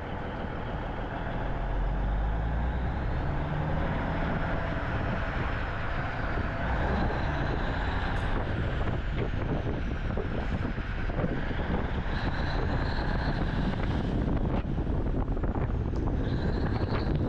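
1989 Kenworth K100E cabover's diesel engine running as the truck is driven, louder from about two seconds in, with a faint high whine rising and falling over it.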